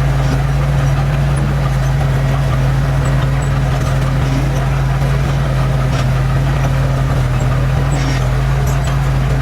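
Diesel engine of heavy earthmoving machinery running steadily at a constant speed, with a few faint clicks.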